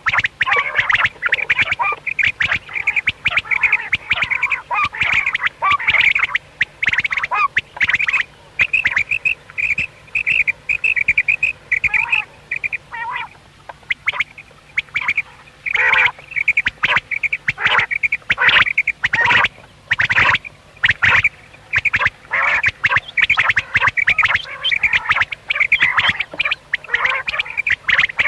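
Common quail calling: rapid strings of short, sharp notes that repeat and overlap with little pause, easing off for a moment about halfway through.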